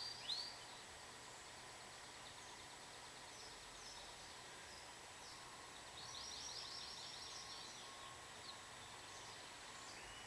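Domestic canary singing in short phrases: a loud run of repeated falling notes right at the start, then mostly quiet with scattered faint chirps, and a softer rapid trill about six seconds in.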